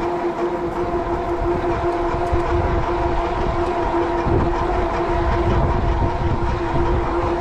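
Cyrusher Kommoda fat-tire e-bike under way, giving a steady even whine, with gusty wind rumbling on the microphone.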